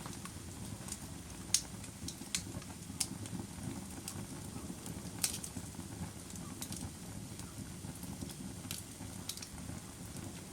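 Fire crackling: irregular sharp pops, about one or two a second, over a steady low rumble of the burning. The loudest pops come about a second and a half in and just past five seconds.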